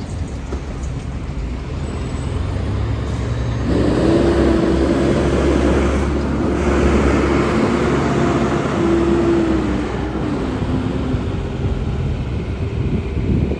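City transit bus driving past in traffic, its engine rumble growing louder about four seconds in. A steady whine rides over it and falls in pitch after about ten seconds.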